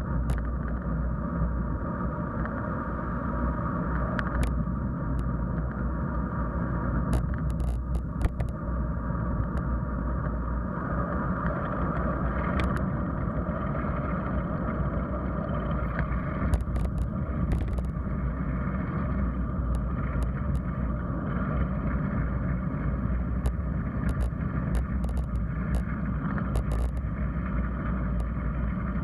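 Wind rushing over the microphone and bicycle tyre noise on a moving bike, with scattered sharp clicks and rattles, in clusters about a quarter of the way in, just past halfway and near the end.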